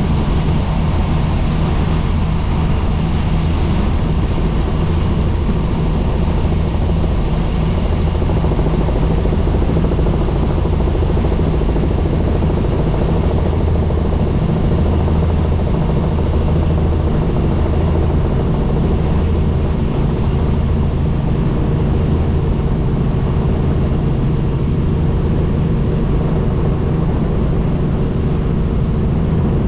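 Helicopter in flight: a loud, steady drone of rotor and turbine engine with a deep hum that swells and eases slightly.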